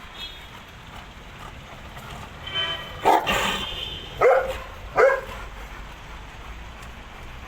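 Caucasian shepherd dog barking: three loud barks about a second apart near the middle, after a short higher-pitched call.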